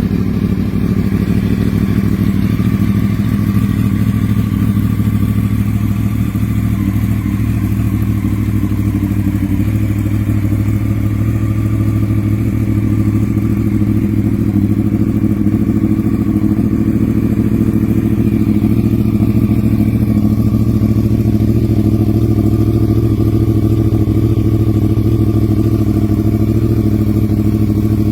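2012 Yamaha YZF-R1's crossplane inline-four idling steadily through a Leo Vince SBK aftermarket exhaust.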